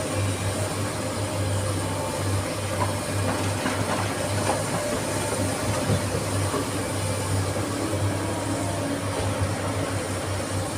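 SANY SY215C excavator's diesel engine running steadily with a deep hum, a few faint knocks over it.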